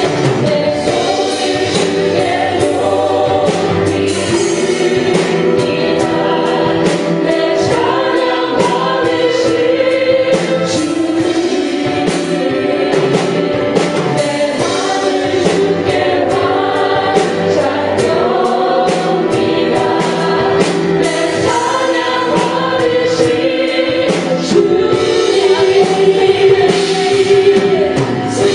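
Live contemporary Christian worship music: a praise band with drums playing while a group of voices sings together.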